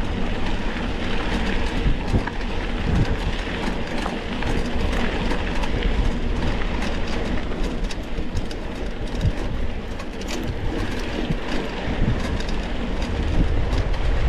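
Mountain bike rattling and clattering over rough trail, with wind buffeting the onboard microphone in a steady low rumble.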